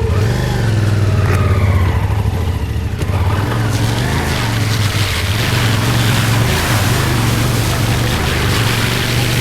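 Motorcycle engine running steadily at low revs, with a splashing, hissing wash of water building from about four seconds in as the bike pushes through a deep water crossing.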